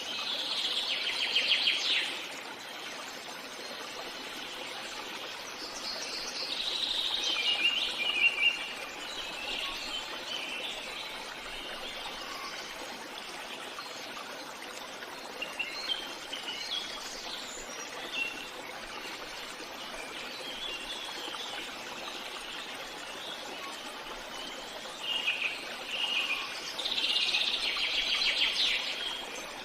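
Birds chirping and singing in bursts of a few seconds at a time, with some fast trills, over a steady faint hiss.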